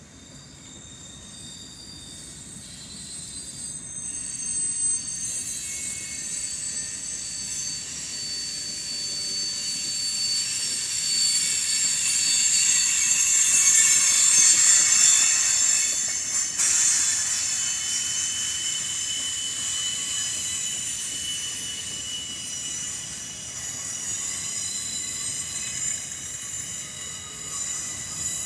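Freight cars rolling past at a grade crossing, their steel wheels squealing in several steady high-pitched tones over the rumble of the train. The squeal builds and is loudest about halfway through, then carries on a little lower.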